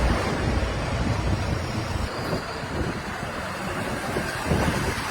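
Diesel engine of heavy machinery running, an uneven low rumble with noise, slightly louder in the first couple of seconds.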